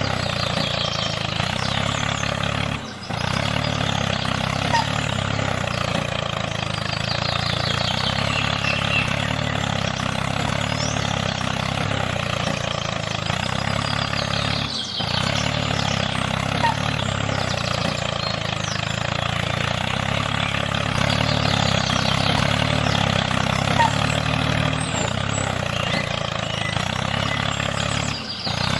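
Small engine running steadily, with brief drops in sound about 3 and 15 seconds in and just before the end.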